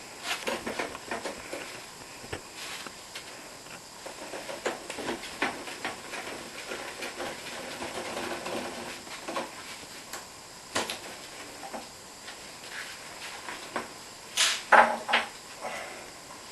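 Scattered small clicks and taps of a screwdriver with a security Torx bit and handled metal parts, as the cable screws on a dishwasher door hinge are loosened, with a few louder clicks near the end.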